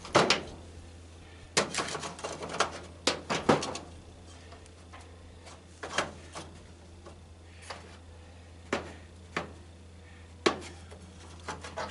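Scattered metal clanks and taps as a tanning bed's sheet-metal rail and fan mounting are worked on by hand, busiest in the first few seconds and then coming about once a second, over a low steady hum.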